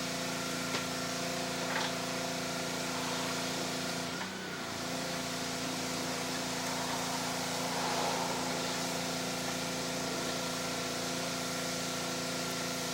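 A machine running steadily in the background, a constant-pitched hum that does not change, with a few faint clicks.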